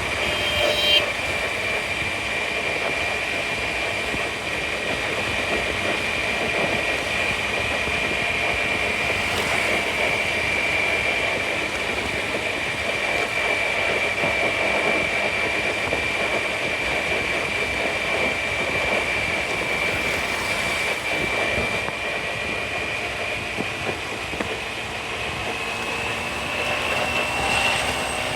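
Scooter riding through city traffic: steady engine and road noise with a steady high whine that rises slightly near the end. There is a brief, sharper sound about a second in.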